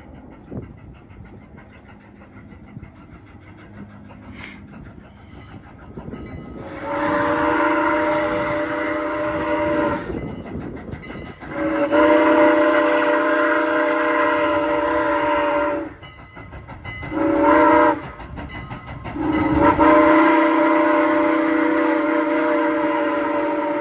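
The chime steam whistle of Canadian National No. 89, a 2-6-0 steam locomotive, sounds the grade-crossing signal: two long blasts, a short one and a final long one, each a chord of several steady tones. Before the first blast there is a low rumble with wind on the microphone.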